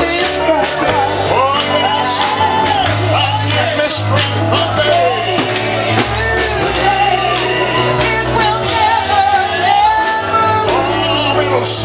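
Live gospel singing with band accompaniment: voices carrying the melody over a steady beat and bass.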